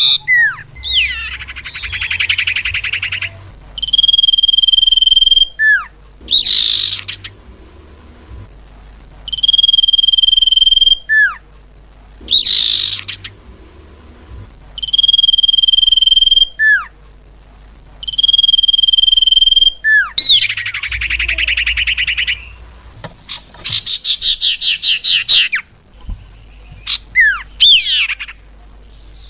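Cipau bird lure calls: a steady, high whistled note about a second and a half long, repeated about every three seconds, alternating with fast buzzy trills and short downward-slurred notes.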